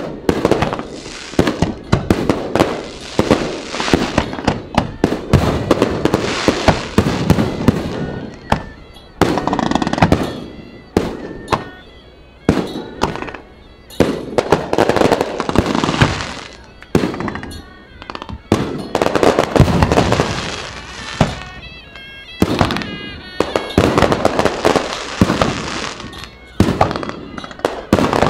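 Fireworks display: aerial shells bursting in rapid, irregular volleys of loud bangs, with several short lulls between volleys.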